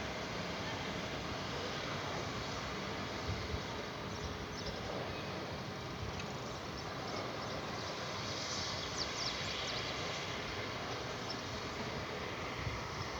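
Steady outdoor background noise with a low rumble, and a few faint high bird chirps about four seconds in and again around nine seconds in.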